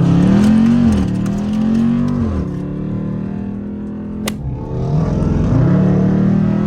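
Car engine accelerating hard through the gears: its pitch climbs and drops back at two upshifts in the first couple of seconds, then it climbs again later. There is a short sharp click about four seconds in.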